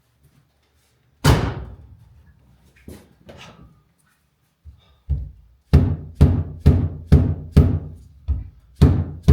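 Percussive knocks: one hard thunk, a couple of lighter ones, then a steady run of blows about two a second, each with a short ringing decay.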